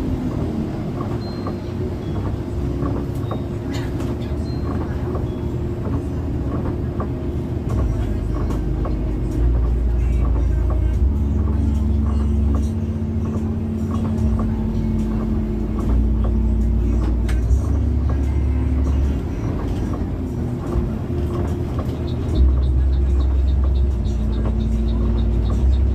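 Intercity bus running on the road, heard from inside the cabin: a steady engine and road drone whose low rumble rises and falls in steps every few seconds.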